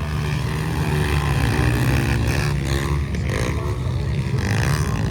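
Motocross motorcycle engine running, its pitch rising and falling.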